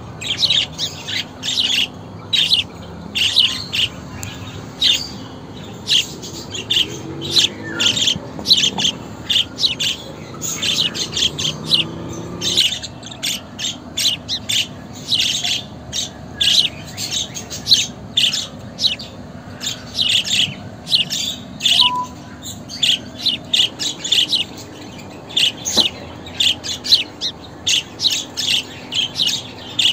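Budgerigars chirping and chattering: a steady run of short, high calls, several a second.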